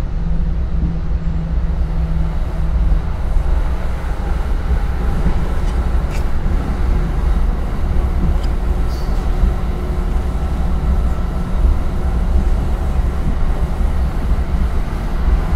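Steady low rumble of a commuter train running at speed, heard from inside the passenger coach, with a few faint clicks about six and nine seconds in.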